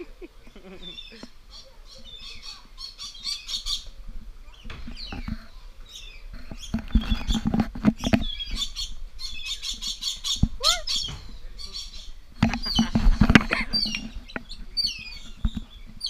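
Aviary birds, parrots among them, chirping and calling in quick repeated high notes, with one rising whistle about ten and a half seconds in. Two spells of low thumping and rumbling, around seven to eight seconds and around thirteen seconds, are the loudest parts.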